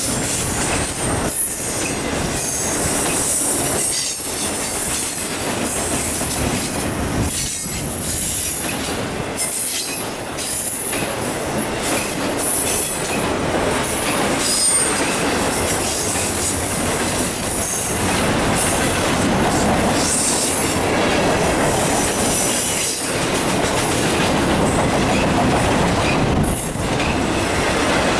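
Westbound autorack and intermodal freight cars rolling past close by in a steady stream of wheel noise. Their wheels squeal at a high pitch on and off, with rail-joint clicks throughout.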